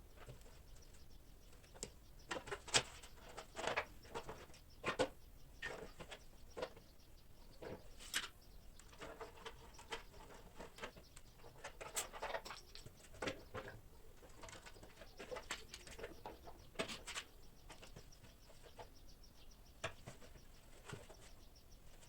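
Scattered, irregular light clicks and knocks, a few louder taps among them.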